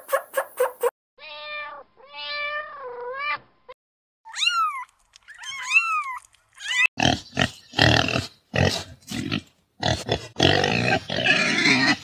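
A turkey's rapid pulsed gobble ends in the first second. Then cat meows follow: two drawn-out lower mews, then several short rising-and-falling kitten mews. From about seven seconds in, piglets oink in a quick run of harsh calls.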